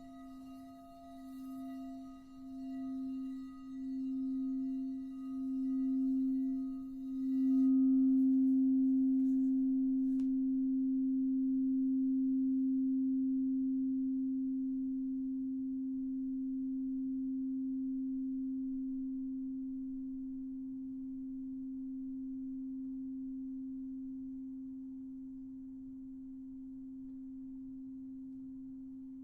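Singing bowl sounding one low ringing note with higher overtones, swelling in slow wobbling pulses. About seven seconds in, the higher overtones drop away and the low note rings on steadily, slowly fading.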